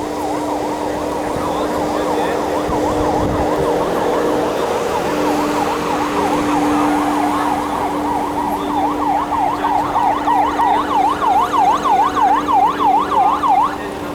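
Electronic yelp sirens of several emergency vehicles sounding at once, each pitch sweeping quickly up and down. Past the middle one siren stands out, loud and pulsing about three times a second, then cuts off suddenly near the end. A steady low hum runs underneath.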